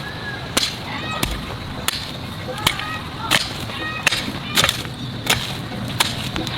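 A series of sharp, whip-like strikes, about ten of them, coming roughly every 0.7 seconds in an even rhythm. A few short, high chirps from small birds or chicks sound between them.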